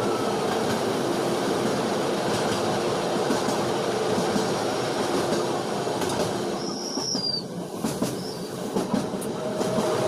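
Passenger train running along the track: a steady rumble of wheels on the rails, with a brief high squeal about two-thirds of the way through.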